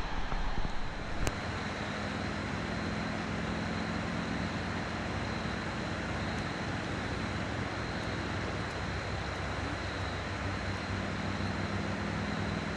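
Steady low engine drone from distant traffic, over an even background hiss, with a constant thin high tone above it. A few uneven low bumps and a sharp click come in the first second or so.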